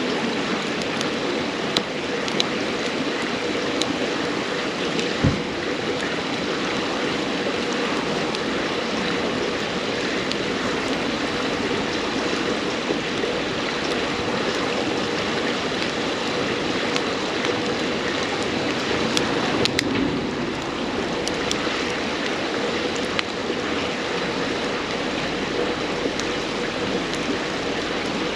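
River water flowing steadily over rocks in a continuous rush, with scattered sharp crackles and pops from a wood campfire burning.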